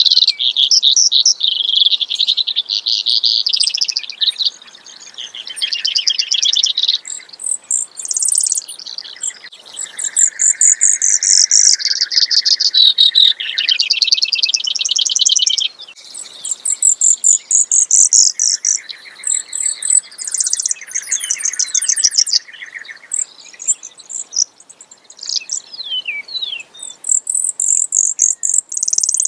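Brewer's sparrow singing its long, canary-like song: a continuous string of fast trills, each at a different pitch, switching between higher and lower trills every second or two.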